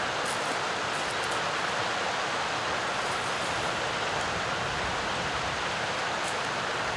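Mountain valley stream flowing over rocks: a steady, even rushing of water.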